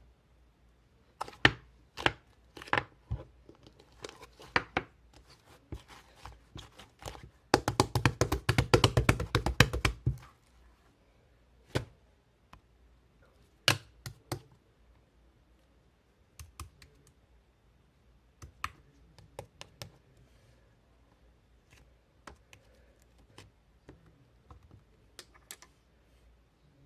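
Scattered sharp taps and clicks in a small room, with a dense run of rapid clicking lasting about three seconds near the middle.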